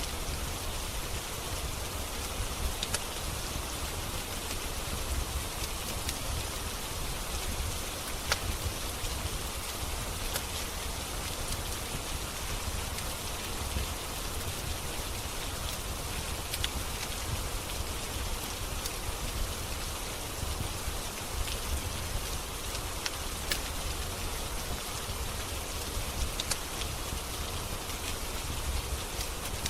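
Steady rain falling, mixed with a wood fire in a fireplace giving occasional sharp crackles and pops.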